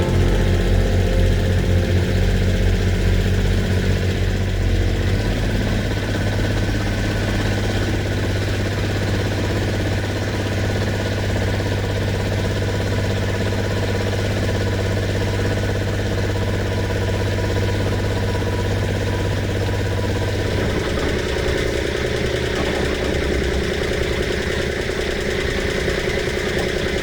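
Boat engine running steadily, its note shifting a few seconds in and again about two-thirds of the way through.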